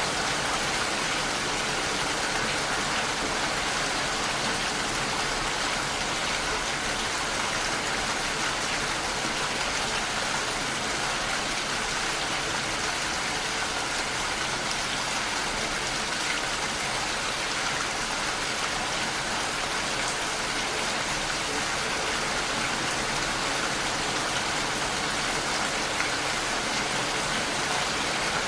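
Steady rain falling and pattering against a window pane, an even hiss with faint scattered drop ticks.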